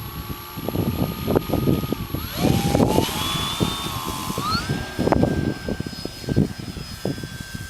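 Electric brushless motor and propeller of an RC Cessna whining, dipping about two seconds in and then rising in steps to a higher pitch as the throttle is advanced, and holding there. Gusts of wind rumble on the microphone throughout.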